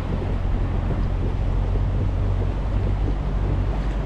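Small boat's engine running steadily with a low hum, with wind buffeting the microphone and water noise around the hull.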